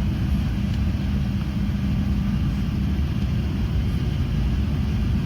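Steady low rumble of an Airbus A380 airliner's engines, with a steady hum that fades out about halfway through.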